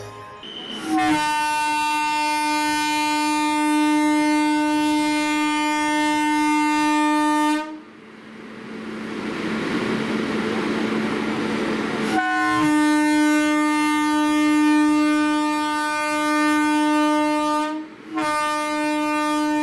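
A train locomotive's horn sounds three times at one steady pitch: two long blasts of about six seconds each and a short one near the end. Between the first two blasts there is a rushing noise that grows louder.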